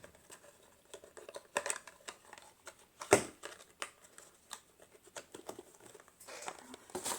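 Packaging being handled: scattered crinkling and rustling with light clicks and taps, the loudest rustle about three seconds in.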